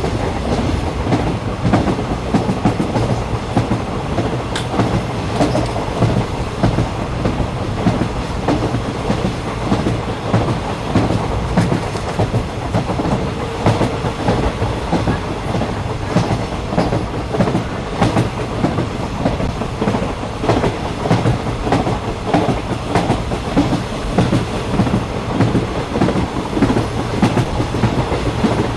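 Train running along the track, heard aboard a carriage: a steady rumble with frequent irregular clicks and knocks from the wheels passing over the rails.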